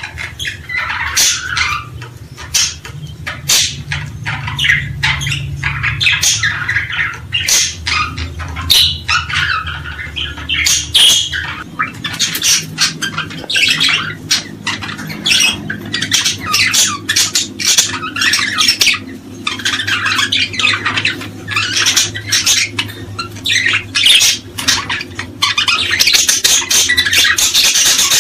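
A flock of small birds squawking and chirping all at once in a dense, harsh chatter, getting louder near the end.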